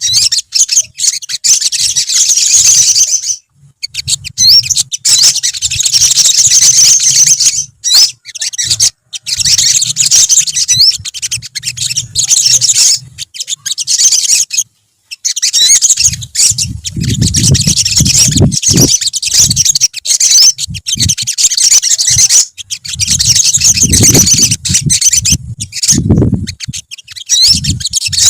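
Olive-backed sunbirds chirping and trilling together in fast, high, dense bursts with brief pauses. A few low thuds sound in the second half.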